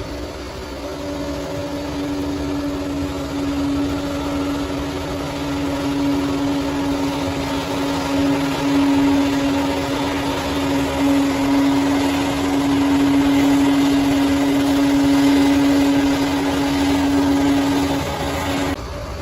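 Bulldozer's diesel engine running under load with a steady whine over it, growing louder, then dropping off suddenly near the end.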